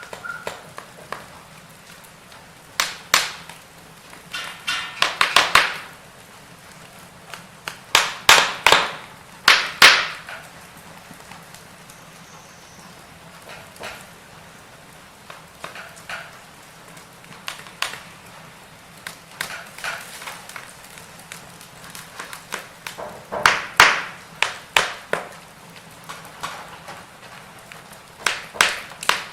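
Firewood burning, crackling with irregular sharp pops and snaps, some coming in quick clusters, over a faint steady hiss.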